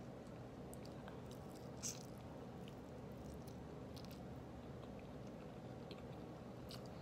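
A person chewing a mouthful of chicken parmesan and spaghetti, faint, with scattered small wet mouth clicks and one slightly louder click about two seconds in.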